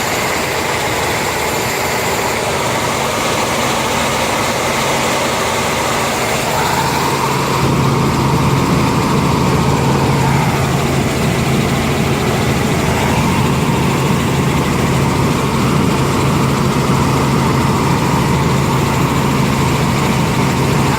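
Helicopter engine and rotor noise, a loud steady drone heard from inside the cabin. A deeper hum strengthens about seven seconds in.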